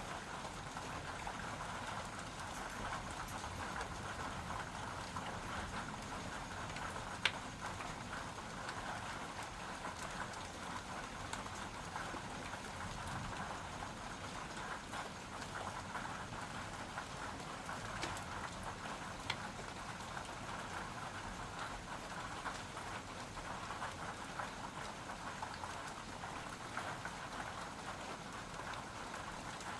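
Steady rain falling, an even hiss of drops, with a few sharper single ticks from louder drops about seven seconds in and again around eighteen and nineteen seconds in.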